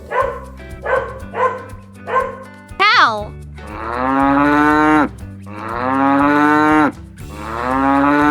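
A dog barking in a quick series of short barks, then three long cow moos of about a second each, over a low music bed.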